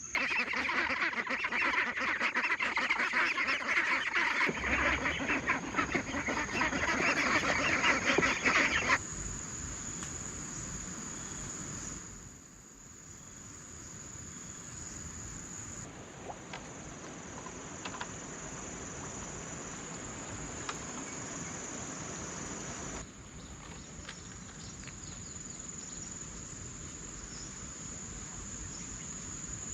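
A flock of farm ducks and geese calling all at once, a loud dense clamour of quacks and honks, for about nine seconds. It then gives way to quieter open-air sound with a steady high drone of insects.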